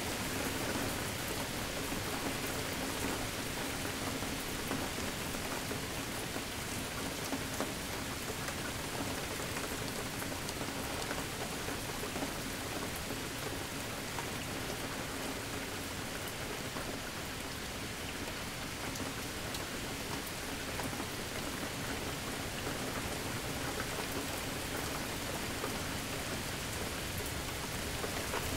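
Steady rain falling, an even hiss with many small drop hits, and a faint steady low hum underneath. No thunder stands out.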